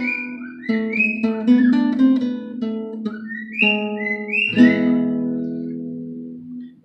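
Taylor Big Baby acoustic guitar picking a melody, ending on a chord struck a little over halfway through that rings out and fades. A bird whistles short rising notes over the playing.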